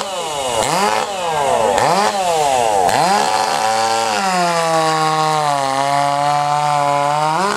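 Small two-stroke competition chainsaw, blipped up and down about once a second. It is then held wide open through a cut, its pitch sagging under load and climbing again near the end as it comes free.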